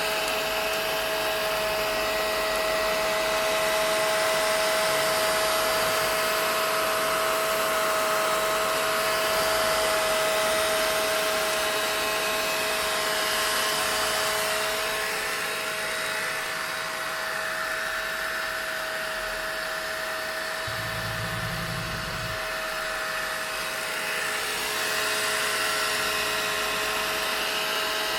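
Vacuum cleaner running steadily: a dense rush of air with a constant motor whine, its level swelling and easing slightly.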